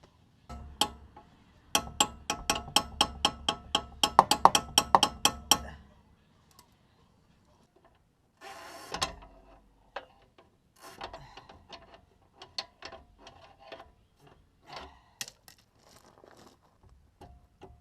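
Hand-tool work on a Jeep's sway bar disconnect link: a fast run of sharp metallic clicks with a ringing tone, about four a second, for about five seconds. Then a short scrape and scattered clinks of metal tools and parts.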